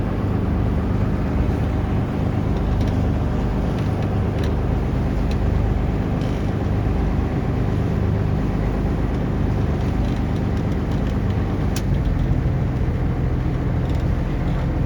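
Taxi boat's engine running steadily under way, a constant low drone over a rushing noise; its pitch steps slightly higher about twelve seconds in.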